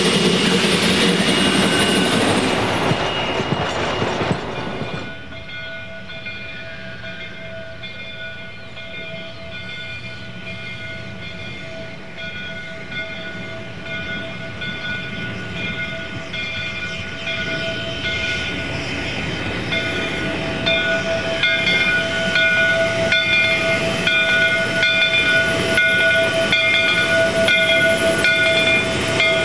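A train moving on rails: a loud rushing noise that cuts off about four to five seconds in, then steady high squealing tones over a rhythmic rail clatter, growing louder toward the end.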